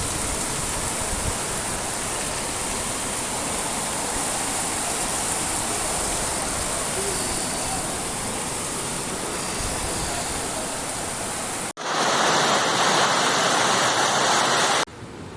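Steady rush of heavy rain and running floodwater. About twelve seconds in it cuts suddenly to a louder rush, and near the end to a quieter one.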